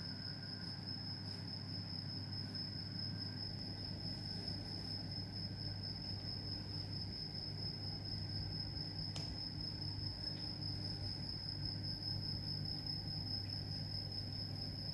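Steady low hum of a large aquarium's pump and filter running, with a continuous high-pitched whine over it and one faint click about nine seconds in.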